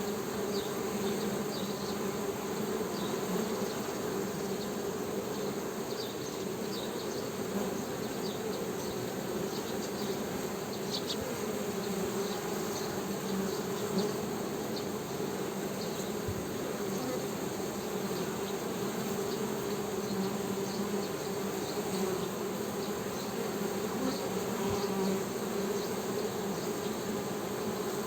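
Honey bees humming in a steady, continuous buzz, with faint short high chirps here and there.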